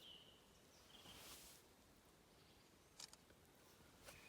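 Near silence: quiet outdoor background with a couple of faint short high tones near the start and a small click about three seconds in.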